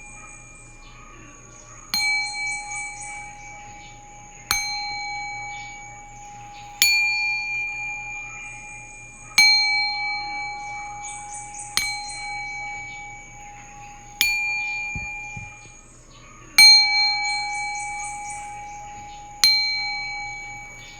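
Singing bowl struck about every two and a half seconds, eight times. Each strike rings out with a low hum and several higher overtones and fades slowly before the next. A light high tinkle sits over a few of the strikes.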